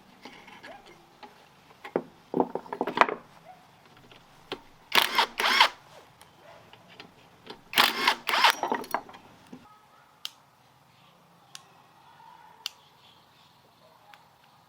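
Three bursts of rapid clicking and metallic clattering from hand work on a small petrol engine, with a few single clicks after them.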